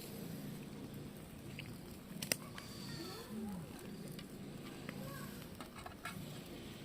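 Faint sizzle and crackle of food cooking on a camp grill, with small scattered clicks and one sharp click about two seconds in.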